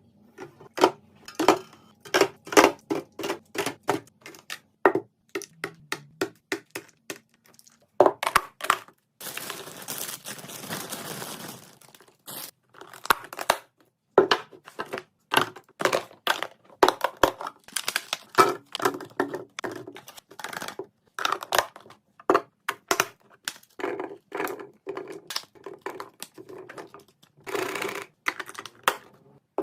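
Drinks and containers being handled and set into a fridge: a long run of sharp clicks, taps and knocks, with a few seconds of hissing, rustling noise about nine seconds in and a shorter one near the end.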